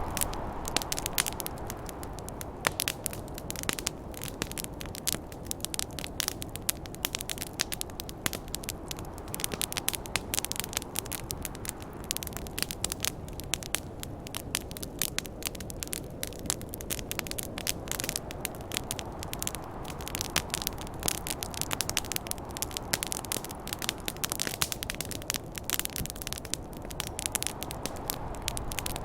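Wood fire crackling, with dense irregular snaps and pops, over a continuous rush of snowstorm wind that swells near the start and again about two thirds of the way through.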